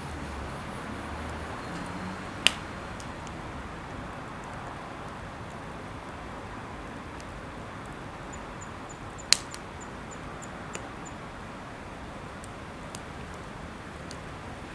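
Wood campfire burning: a steady hiss with two sharp pops, one early and one about two-thirds through, and a few fainter crackles.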